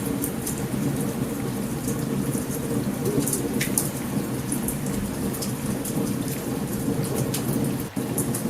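A thunderstorm's steady heavy rain with a constant low rumble of thunder. Many short sharp crackles are scattered throughout from a campfire burning close by.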